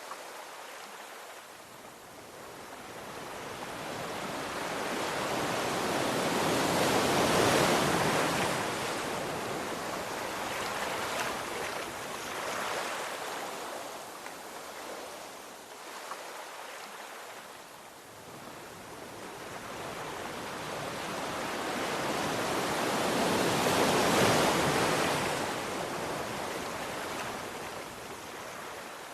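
Ocean waves breaking on a shore: the surf swells to two loud washes, about 7 and 24 seconds in, each falling back to a softer hiss between.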